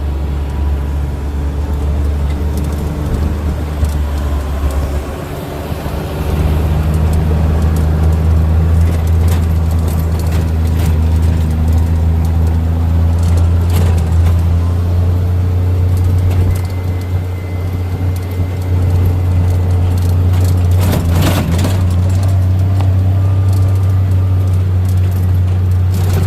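Engine of a vehicle being ridden in, running with a steady low drone; it gets louder about six seconds in as the engine pulls harder. A brief rattle comes about 21 seconds in.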